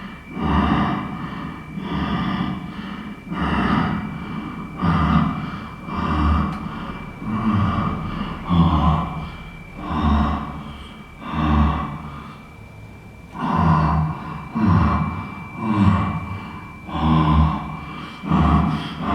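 A person breathing heavily in loud, rhythmic gasps, about one breath every second and a half, over a faint steady high-pitched tone.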